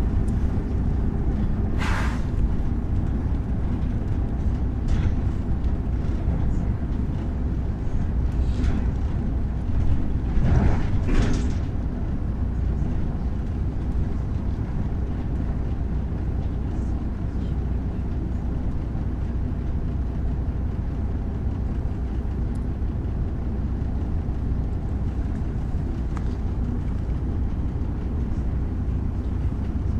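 MAZ-103 city bus riding along: a steady low engine and road rumble, with a few short rattles and a louder noisy burst about ten seconds in.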